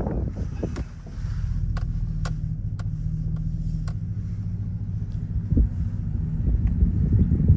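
A motor vehicle engine running steadily with a low, even hum, joined by a few faint clicks.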